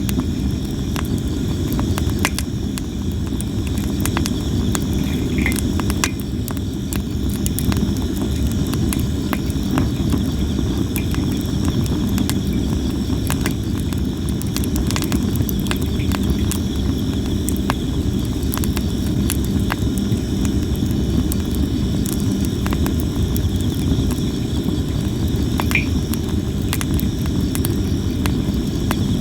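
Sawara (Japanese cypress) wood burning in a campfire, crackling continuously with scattered sharp pops, over a steady chorus of insects chirping.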